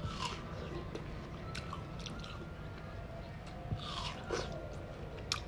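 Close-miked eating: a person chewing with wet smacks and small mouth clicks, over a steady low hum.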